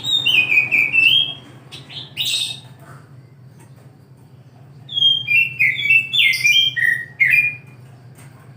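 Oriental magpie-robin (kacer) singing: quick strings of clear whistled notes stepping down in pitch, in a burst at the start, a short note after about two seconds and a longer run from about five seconds in. A steady low hum runs underneath.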